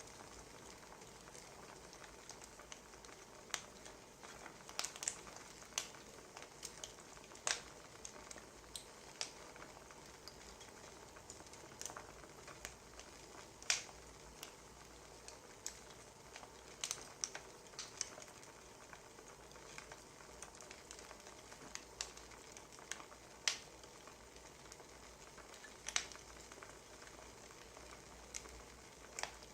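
Wood fire crackling: a soft steady hiss with irregular sharp pops and snaps of burning firewood.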